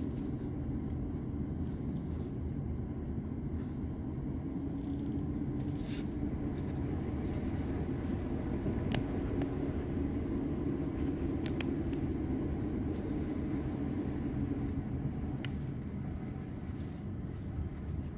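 Steady vehicle rumble, like a car driving along a road, with a few faint clicks about halfway through.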